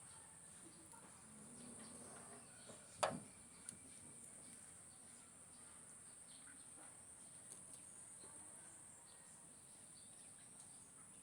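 Near silence with a faint, steady high-pitched insect drone, like crickets, and one sharp knock about three seconds in, followed by a small tick.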